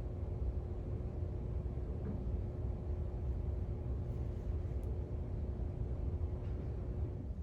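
Steady low rumble with a faint constant hum underneath, like room or machine background noise.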